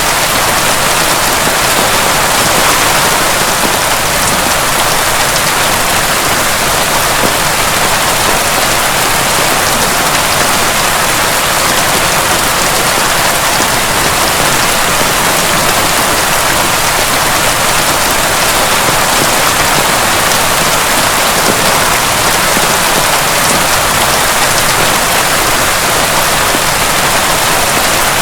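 Heavy rain pouring steadily, an even hiss of drops with no thunder.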